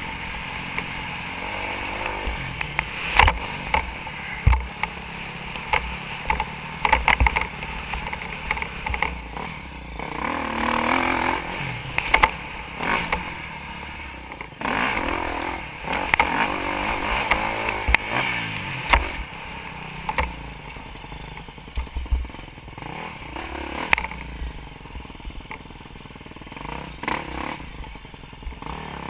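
Motocross dirt bike engine revving up and down as it rides, with many sharp knocks and rattles through the ride.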